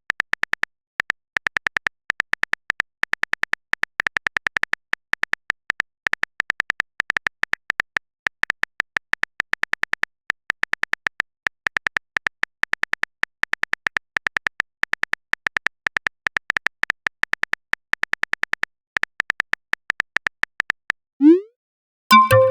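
Phone-keyboard typing sound effect: rapid, irregular clicks, several a second, running almost without a break, then stopping about a second before the end, followed by a short rising swoosh.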